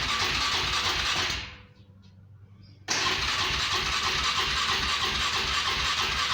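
ATV engine cranking on its starter on a cold start without catching. The cranking winds down about a second and a half in, pauses, then starts again suddenly about three seconds in.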